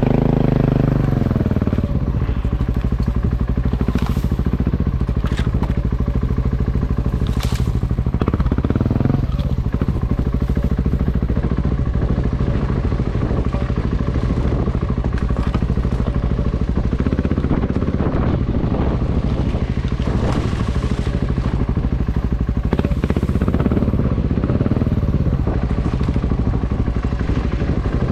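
Motorcycle engine running steadily under way, its revs changing near the start and again about eight seconds in, with a few sharp clicks or clatters.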